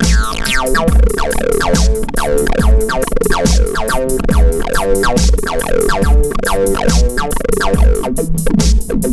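Modular synthesizer playing an electronic pattern: a heavy kick drum about every 0.8 seconds under fast, even hi-hat ticks, with sequenced synth notes that sweep downward in pitch over and over.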